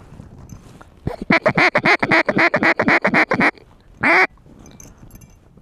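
Mallard duck call blown to work incoming ducks: a fast run of about fifteen quacks, roughly six a second, then one longer quack about half a second later.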